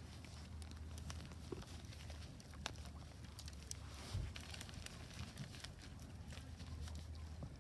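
Wood fire burning in a Solo Stove Ranger fire pit: scattered sharp crackles and pops over a steady low rumble, with one dull thump about four seconds in.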